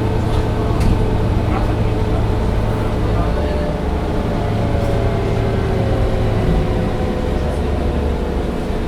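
Mercedes-Benz O405 N1 city bus under way, heard from inside: a steady diesel engine drone with whining drivetrain tones that drift in pitch and sag slightly from about halfway through, and a few faint rattles.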